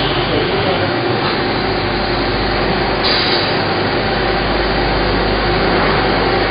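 Workshop machinery running steadily: a continuous loud noise with a low hum under it.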